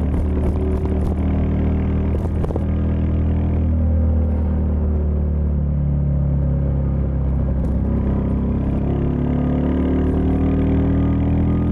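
Royal Enfield Meteor 350's 349 cc single-cylinder engine running while being ridden, its note easing down over the first few seconds and rising again in the second half as the throttle opens.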